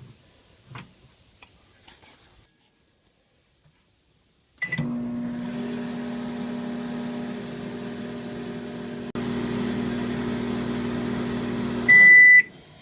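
Microwave oven starting with a short beep, then running with a steady hum. Near the end the hum stops and the oven beeps as the cycle finishes.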